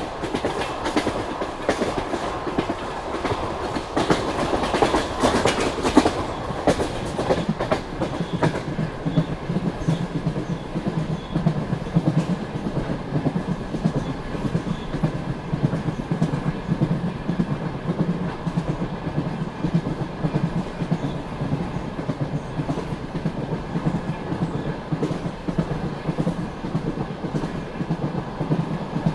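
Passenger train carriage rolling along the track, its wheels clicking and clattering over the rail joints. The clatter is busiest in the first eight seconds or so, then settles into a steadier rumble with a low hum underneath.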